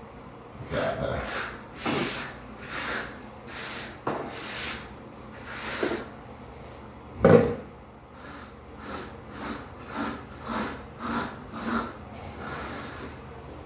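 A hand tool scraping and shaving dry shower-pan mortar (deck mud) in repeated strokes. The strokes come about once a second at first and about twice a second in the second half, with a single sharp knock about seven seconds in.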